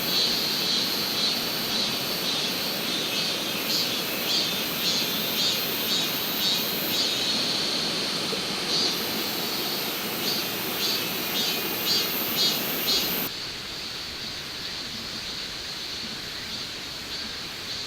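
Outdoor ambience of insects chirping in a steady rhythm, about two pulses a second, over a steady rushing background. About thirteen seconds in, the chirping and much of the rushing cut off abruptly, leaving a quieter hiss.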